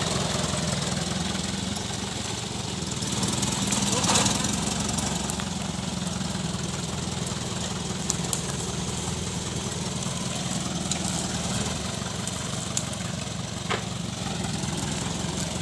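Daihatsu Taft Hiline truck's diesel engine idling steadily, with a few sharp knocks and clicks over it.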